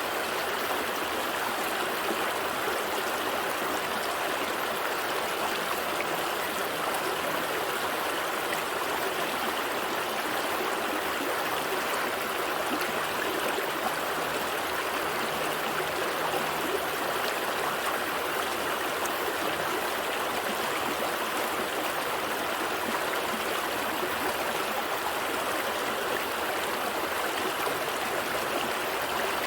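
A gentle stream flowing over rocks, a steady, even rush and trickle of water with no breaks.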